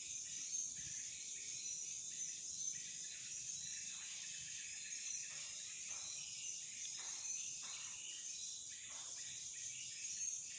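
Steady, high-pitched chorus of insects droning without a break, with a few faint, brief sounds mixed in during the middle.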